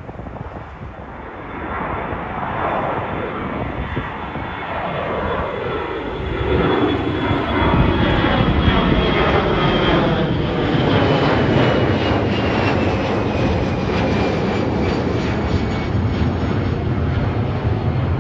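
Jet airliner's engines passing close by, growing louder over several seconds and then holding loud, with a high engine whine that slowly falls in pitch as the aircraft goes past.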